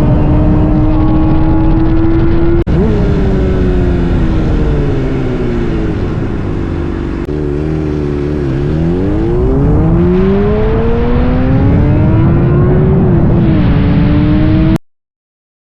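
Honda CBR sport motorcycle engine through an aftermarket exhaust, running loud at high revs. About three seconds in there is an abrupt break, and then the engine note falls steadily for several seconds and climbs back up to a high pitch. The sound cuts off abruptly near the end.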